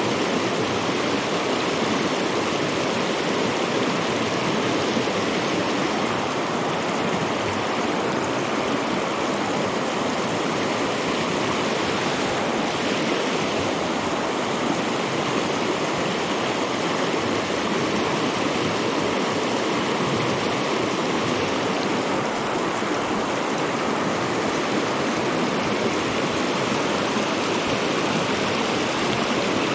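Trout stream water rushing over rocks, a steady, even noise.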